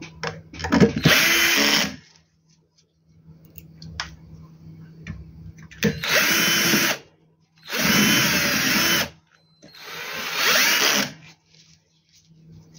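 Electric screwdriver running in four short bursts of about a second each, its motor pitch rising and falling, as screws are driven during reassembly of the inverter.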